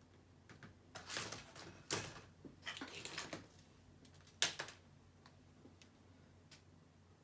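Handling noises from laptop repair work: a run of small clicks, taps and scraping rustles of plastic parts, ending in one sharp click about four and a half seconds in.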